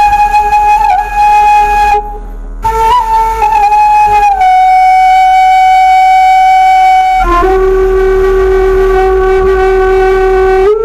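Bamboo suling flute played by a beginner: a few short notes, a brief breath break about two seconds in, then a long held note that drops to a lower held note about seven seconds in.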